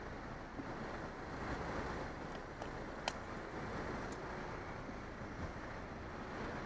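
Steady wind rumble on the microphone with road noise while cycling, and a single sharp click about three seconds in.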